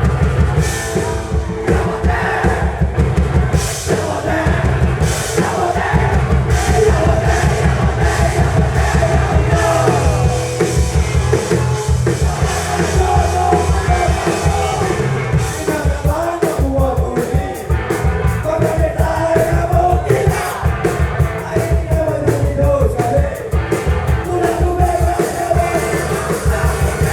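Punk rock band playing a fast song, with shouted vocals over rapid, steady drumming.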